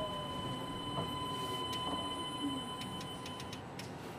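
Running sound of a Kanazawa Seaside Line 2000 series rubber-tyred automated guideway train, with its Toyo IGBT-VVVF inverter drive, heard from inside the car. There is a steady rumble with a thin steady whine and scattered sharp clicks, slowly getting quieter.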